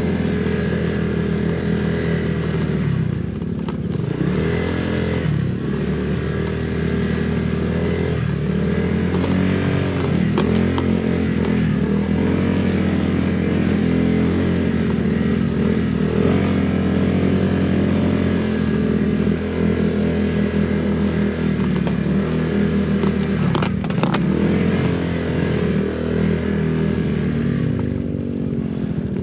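Honda PCX 160 scooter's single-cylinder engine running under way, its pitch rising and falling again and again as the throttle opens and closes.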